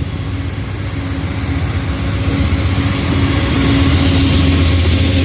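Amtrak GE P42DC diesel locomotive passing with its train: a steady engine drone with a held low tone, growing louder about three seconds in.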